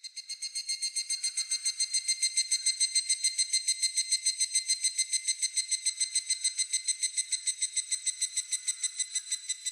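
Higurashi (evening cicada) singing its ringing 'kana-kana-kana' call: a fast, even train of high, pure pulses, about seven a second, that swells up over the first couple of seconds, holds steady and breaks off near the end.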